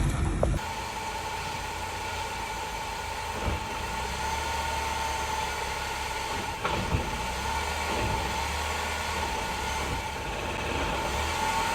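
Car engine running at idle with a steady high whine, and a few short knocks as the car jerks when it moves off the brake. The cause of the jerking is undiagnosed.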